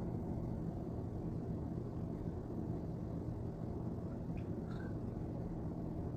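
Steady low background hum, with a few faint clicks about four to five seconds in.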